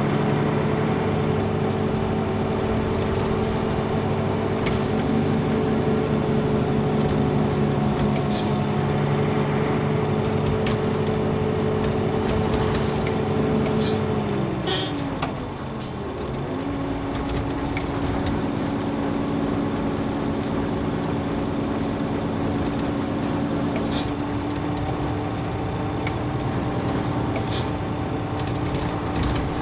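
Nissan Diesel UA bus's PF6HTA diesel engine heard from inside the bus while driving. About halfway through the engine note falls and briefly drops in level as the 5-speed manual is shifted, then holds steady at a lower pitch, with a few short rattles.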